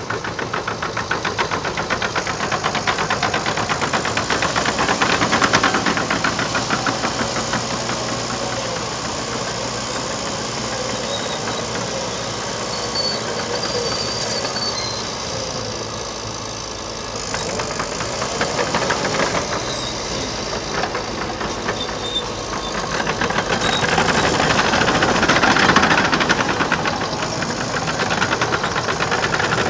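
Liebherr PR 726 crawler dozer's diesel engine running under load with a fast rhythmic pulse, swelling and easing several times as it pushes topsoil. A thin high whine comes and goes.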